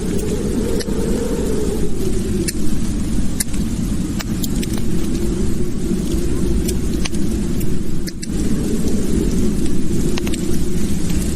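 Wood fire crackling in a fireplace: a steady low roar of flames with sharp pops and snaps scattered throughout.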